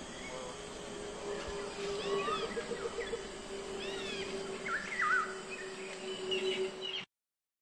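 Jungle birds calling: repeated arched, whistled calls and a few twisting whistles, over a steady low drone. The sound cuts off suddenly near the end.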